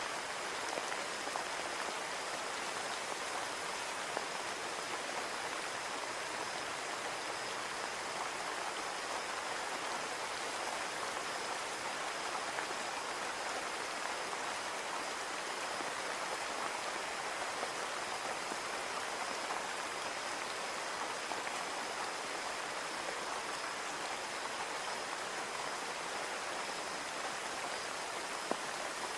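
Steady rain falling on a window, an even hiss with occasional faint drop ticks.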